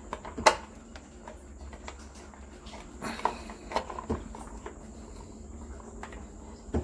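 Scattered clicks and knocks of hand-tool work on an electric water heater's wiring access, with a faint steady high-pitched tone throughout.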